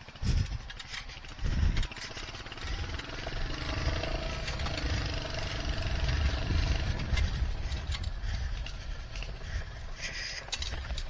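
Motorcycle engine running as the bike rides a rough, bumpy track, with scattered clicks and rattles. Two low thumps come in the first couple of seconds, then the engine settles into a steady rumble.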